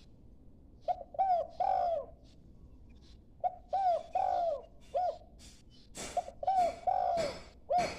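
A young dove cooing in three phrases, each a run of short notes followed by longer swooping coos; it is a juvenile still learning its call.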